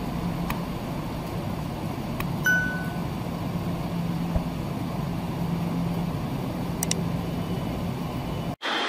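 Train running with a steady rumble, a low hum and scattered sharp clicks, and a brief ringing ding about two and a half seconds in; the sound cuts off suddenly near the end.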